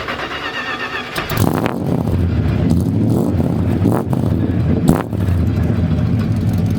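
1973 Dodge D100's carbureted 318 V8 catching about a second in and then running with a steady low rumble, coming to life after long sitting.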